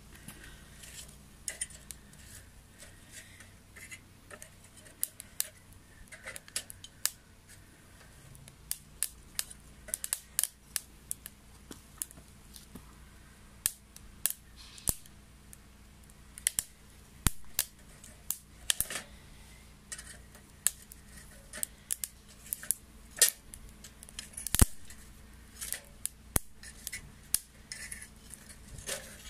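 Wet firewood crackling and popping as it burns in a homemade secondary-combustion wood stove: irregular sharp snaps, a few to several a second, some much louder than the rest, over a faint steady low hum.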